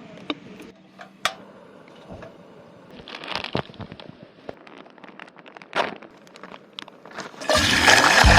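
Scattered crackles and sharp clicks, with a few short rustling patches, over a quiet background; near the end, background music comes in loudly.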